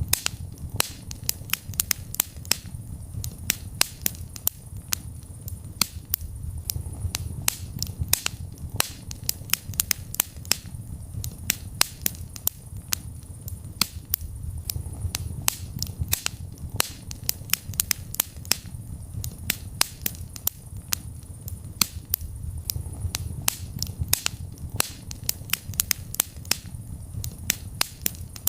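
Wood fire in a fireplace crackling: a constant scatter of sharp pops and snaps, several a second, over a low steady rumble of the flames.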